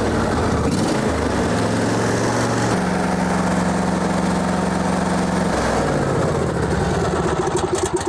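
John Deere D155 lawn tractor engine running, freshly refilled with oil and fitted with a new filter, run to check for leaks. Its speed steps up about a second in and again near three seconds, then drops back around five and a half seconds.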